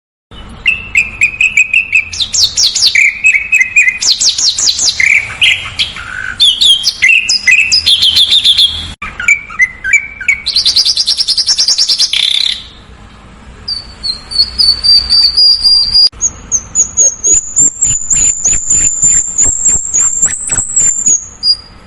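Songbird song: a fast, varied string of chirped phrases and tight trills, high-pitched. In the last third it changes to a long, thin, high whistle held for several seconds over a rapid run of ticking notes.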